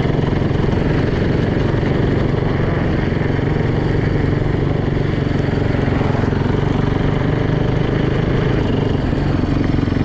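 Freshly rebuilt Yamaha YZ450F dirt bike's single-cylinder four-stroke engine running at a steady, even speed.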